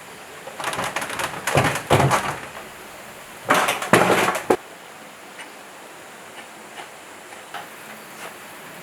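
Metal parts clattering and scraping as they are handled, in two rough bursts, one about half a second in and one about three and a half seconds in, followed by a few light clicks.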